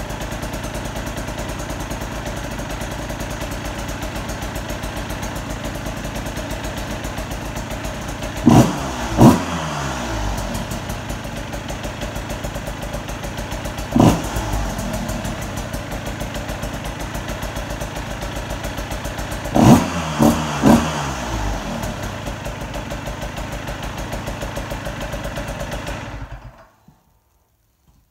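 Two-stroke KTM dirt bike breathing through an FMF Titanium PowerCore 2.1 silencer, idling steadily on its first start with the new pipe. It is blipped on the throttle twice about a third of the way in, once about halfway, and three times in quick succession about two-thirds through, then switched off near the end.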